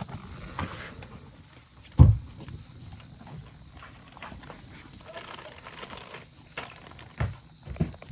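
A single heavy thump about two seconds in, then a few lighter knocks near the end, like objects being set down or handled.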